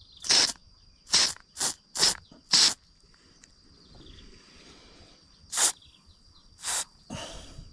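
Short, sharp hissing bursts from cleaning a brush cutter's carburettor: five in quick succession, then after a pause two more and a longer one near the end. A steady high insect drone runs behind them.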